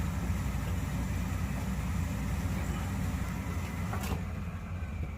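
Gas boiler running with a steady low rumble and hiss. About four seconds in there is a click and the hiss falls away as the burner shuts off, while the low rumble carries on.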